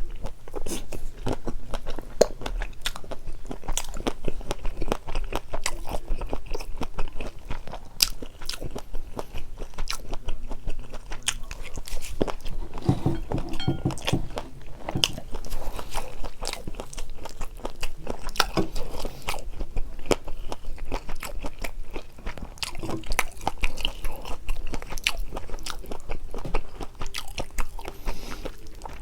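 Close-miked eating of Buldak carbonara spicy noodles with Spam and Vienna sausages: continuous chewing and biting, a dense run of small wet clicks and crunches, fuller for a moment around the middle.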